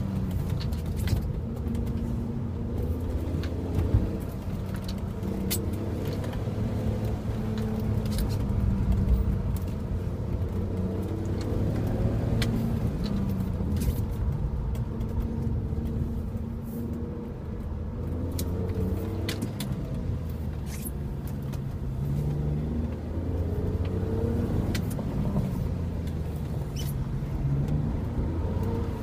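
BMW E46 330i's straight-six engine, heard from inside the cabin, revving up and falling back again and again as the car is driven hard through an autocross course. Tyres hiss on the wet pavement underneath, with occasional sharp clicks.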